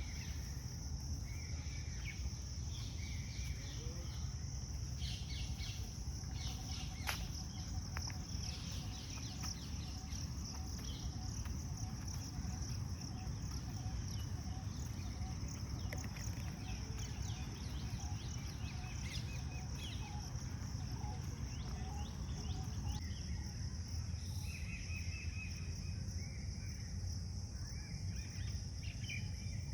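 Steady high-pitched insect chorus with many short bird chirps over it, over a constant low rumble.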